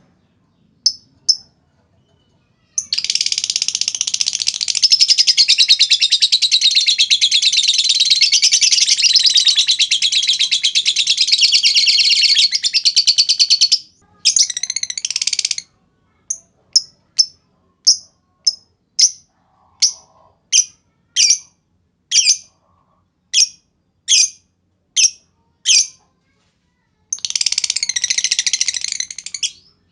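Lovebird calls. A few sharp high chirps lead into a long, continuous, shrill trill of about ten seconds (the "ngekek panjang" prized by keepers), then a shorter burst. After that comes a run of evenly spaced single chirps about one a second, the "ngetik" (typing) call, and a second long trill near the end.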